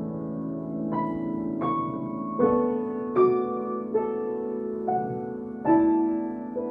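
Solo piano playing a slow, gentle melody: single notes struck about once every three-quarters of a second, ringing over held lower notes.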